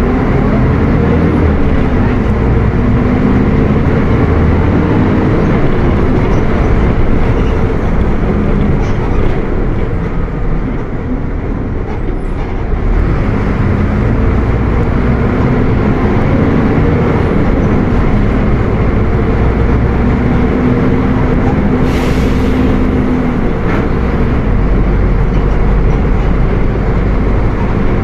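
Mercedes-Benz OF 1722M bus diesel engine running on the move, its note rising and falling as it revs and changes gear, easing off briefly about ten seconds in. A short hiss sounds about three-quarters of the way through.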